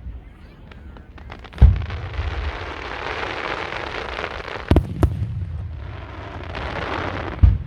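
Aerial fireworks shells bursting: four sharp, deep booms, two of them close together in the middle. Between the booms comes a long, dense crackling hiss from the bursting effects.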